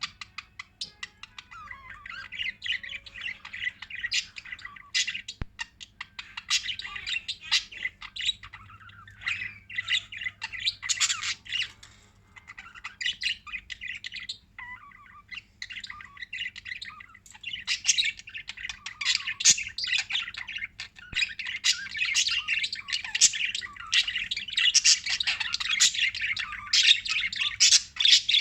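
Small pet parrots chattering, with many rapid overlapping chirps and squawks that get busier and louder in the second half.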